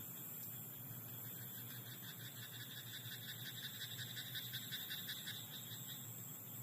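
Rice-paddy frogs croaking: a rapid pulsed call swells up about a second and a half in and fades near the end, over a steady high-pitched hiss.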